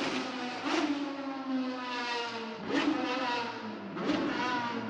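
Car engines running with a steady, slowly falling pitch, broken by three short sharp bursts, about a second in, near the middle and near the end.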